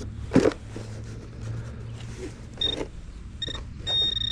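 A sharp thump about half a second in. Then a metal detecting pinpointer sounds short, high electronic beeps, twice briefly and then a longer beep near the end, as it picks up a coin in the dug hole.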